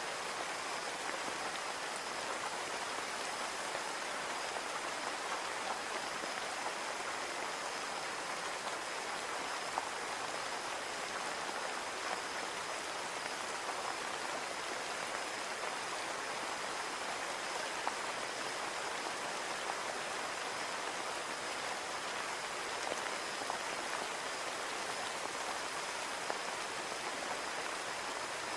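Steady rain falling on a window pane: a continuous even patter with occasional louder single drops ticking through it.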